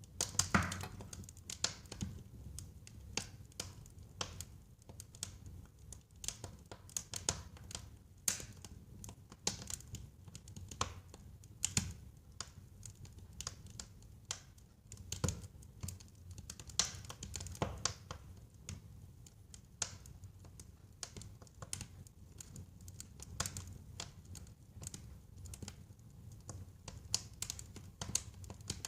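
Wood fire burning in a fireplace, crackling with frequent irregular snaps and pops over a low, steady rumble of the flames.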